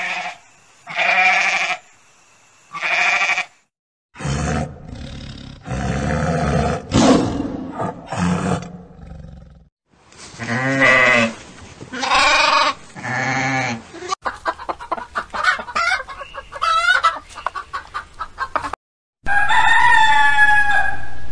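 A sequence of farm-animal calls, one after another: a goat bleating in short repeated calls, then rougher lower calls, then a lamb bleating, then a run of rapid pulsed sounds, and near the end a rooster crowing.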